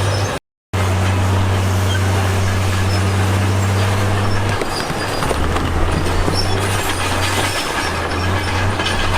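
Heavy diesel earthmoving machinery running, a steady low engine hum under a constant rough, grinding noise. The engine note changes about four and a half seconds in, and the sound cuts out briefly near the start.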